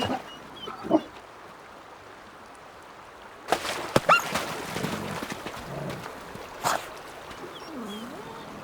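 Wolves giving a few short whines and yelps, one rising sharply in pitch, around splashes of water in a shallow river.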